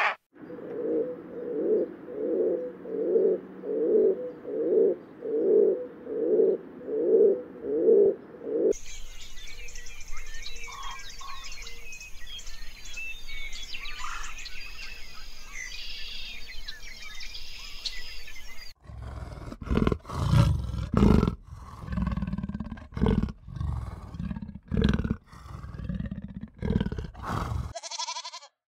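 Animal calls in three parts: first a steady series of about a dozen rhythmic, mid-pitched calls, then a dense chorus of bird chirps, then a run of deep, irregular grunts.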